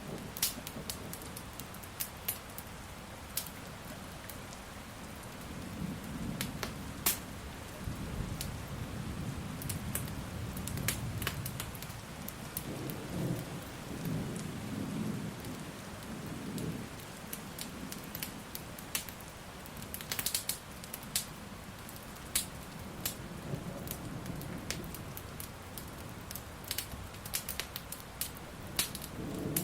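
Steady rain with thunder rumbling low through the middle, swelling and fading over about ten seconds, while a wood fire crackles with sharp pops throughout.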